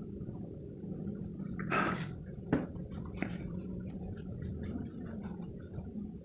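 Pencil on paper: a short scratchy stroke about two seconds in, followed by two sharp clicks and faint scattered ticks, over a steady low hum.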